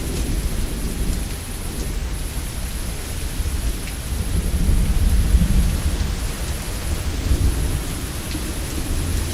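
Steady heavy rain with thunder rumbling low underneath, the rumble swelling about halfway through.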